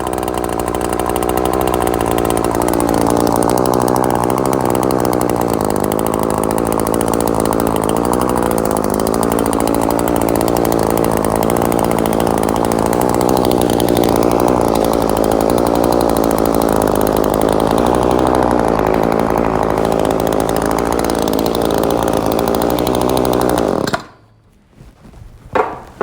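Echo SRM-2620 string trimmer's small two-stroke engine running at a steady speed, then cutting off suddenly about 24 seconds in as it is shut down, followed by a few knocks.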